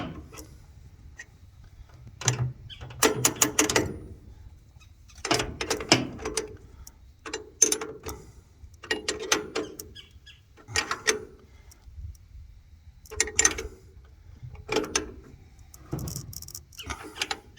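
Socket ratchet wrench tightening bolts, clicking in short bursts about every one and a half to two seconds as each stroke is swung back.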